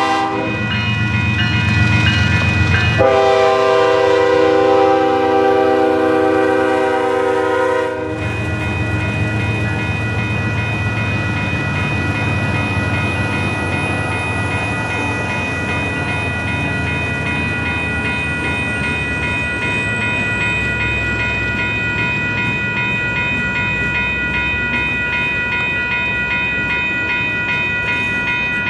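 Freight train's diesel locomotive horn blowing: a blast ending just after the start and a long blast from about three to eight seconds in. Then the train rolling past with a steady rumble and a steady high ringing.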